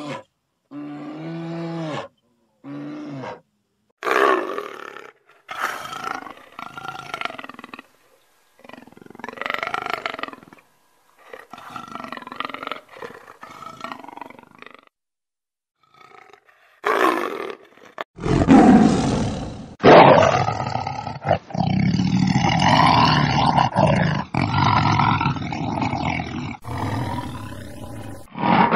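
Large wild animals roaring and growling in a string of short, separately cut calls. A few short pitched calls open it, and a long, louder stretch of continuous roaring fills the last third.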